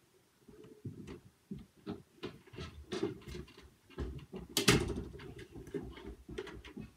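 Irregular knocks, bumps and handling thuds in a small room, with a louder thud about four and a half seconds in.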